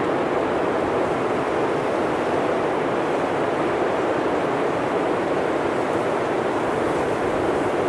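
Blizzard wind blowing as a deep, steady rush of noise that neither swells nor breaks.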